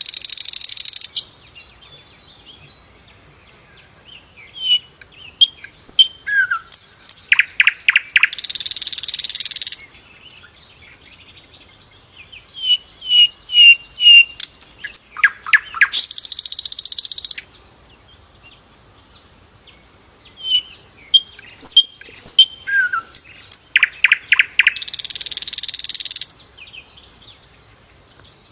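Sikatan londo flycatcher singing three repeated song bouts. Each is a run of quick high chirps and short notes ending in a harsh buzzing trill of about a second and a half.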